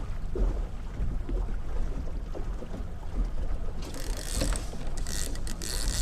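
Low rumble of a trolling boat with wind. About four seconds in, a fishing reel's clicker starts ratcheting loudly as line is pulled off, with a short break a second later. It signals a possible strike.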